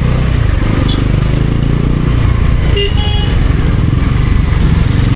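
Bajaj Pulsar NS400Z motorcycle running steadily while being ridden, its engine and road rumble loud and even. A brief high tone cuts in about three seconds in.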